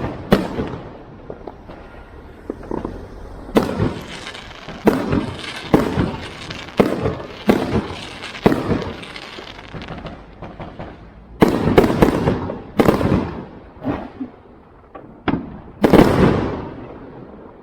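Fireworks going off: about a dozen sharp bangs at irregular intervals, each followed by a short fading tail.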